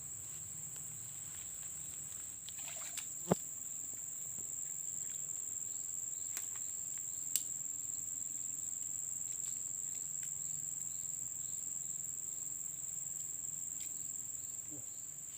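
Steady, high-pitched insect chorus, a continuous cricket-like trill. Two sharp clicks cut through it, about three seconds in and about seven seconds in; the first is louder.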